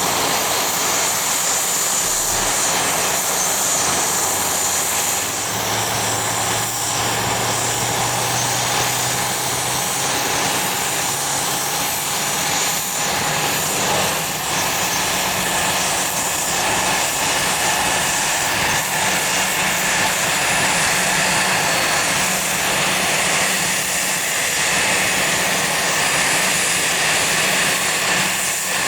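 Aircraft engines running steadily, a loud even rush with a high whine in the first part and a low steady hum joining about five seconds in.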